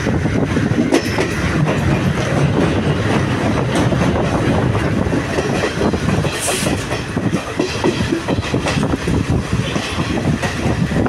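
Chinese-built blue diesel multiple unit of Sri Lanka Railways running at speed, heard from an open carriage window: a steady rumble of wheels on rails with a rapid clickety-clack over the rail joints.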